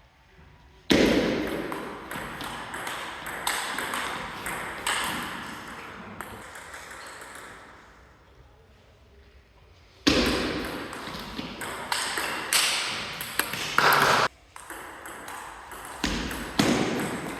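Table tennis ball clicking off bats and table in quick rallies: one starts about a second in, there is a lull, and a second starts about ten seconds in. Voices can be heard faintly.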